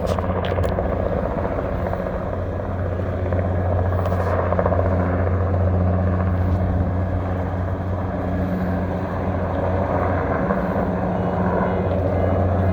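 Erickson S-64 Aircrane heavy-lift helicopter running with a steady low rotor drone and turbine noise, swelling slightly a few seconds in.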